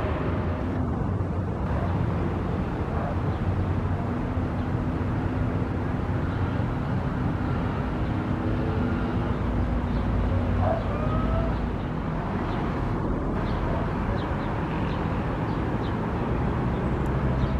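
Steady low rumble of city traffic, with a few faint, short high-pitched notes about two thirds of the way through.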